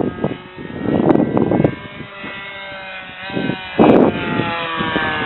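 Radio-controlled model airplane in flight, its motor and propeller giving a steady drone whose pitch slides up and then down as it passes. Gusts of wind hit the microphone about a second in and again near four seconds.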